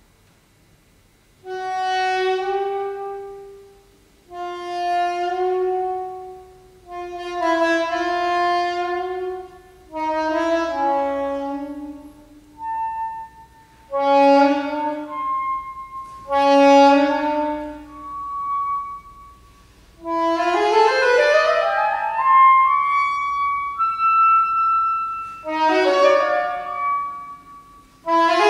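Solo saxophone playing slow contemporary classical phrases of long, swelling notes separated by short breaks, with a quick rising run of notes about two-thirds of the way through.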